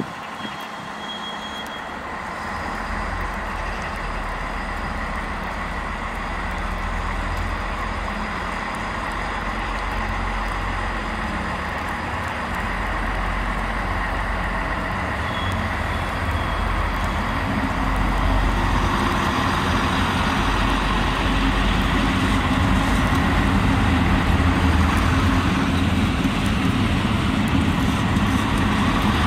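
A train approaching, its running noise growing steadily louder over about half a minute, with a low steady drone beneath it.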